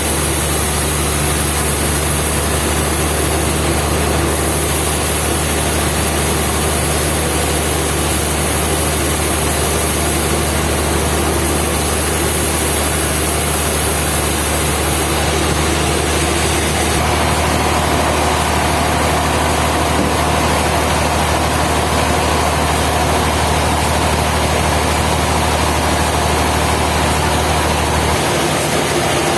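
Sawmill machinery running steadily under power. About halfway through a higher-pitched hum joins in, and the deep low hum drops out near the end.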